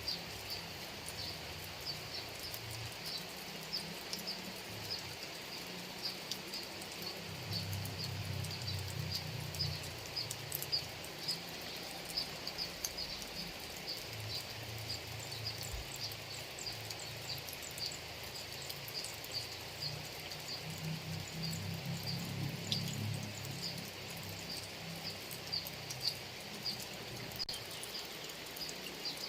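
Steady rain falling, with a high chirp repeating about twice a second over it and a low rumble that swells and fades twice.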